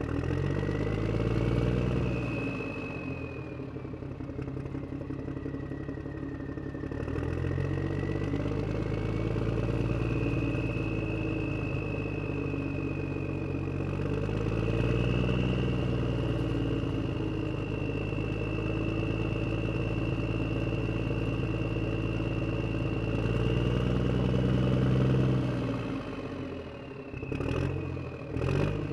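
Vehicle engine running, its pitch swelling up and falling back in long waves every several seconds, with a thin steady whine above it. Near the end the engine drops away and a couple of sharp knocks are heard.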